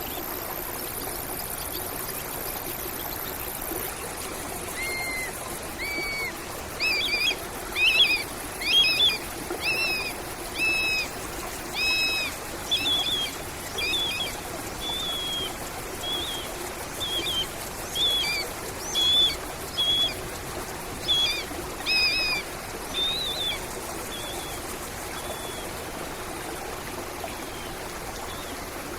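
A stream running steadily, with a bird repeating a short clear call about once a second from about five seconds in, for some twenty seconds, then stopping.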